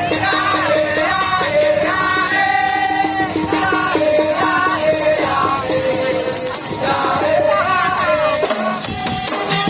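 Madurese tong-tong parade music: a melody of held, stepping notes over a steady percussion beat.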